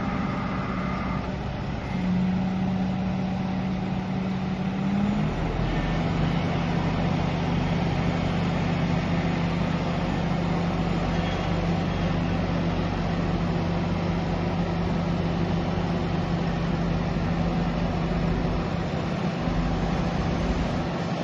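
Bobcat S450 skid-steer loader's diesel engine running steadily under work, with a steady droning tone. The tone shifts up a little about five seconds in, then holds.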